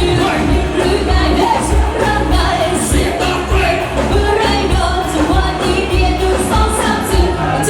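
Live Thai pop music with a band and a steady bass beat; a voice sings over it in places.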